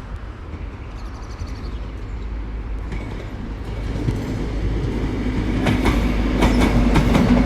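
A GWR Castle set High Speed Train led by a Class 43 diesel power car approaches and grows steadily louder, with the steady drone of its engine. From about six seconds in, the wheels begin clacking over rail joints.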